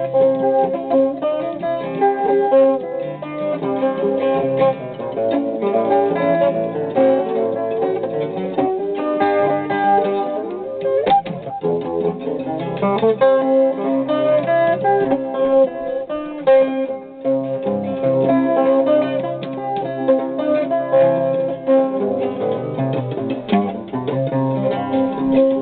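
Guitar being picked in a steady instrumental passage, with no singing.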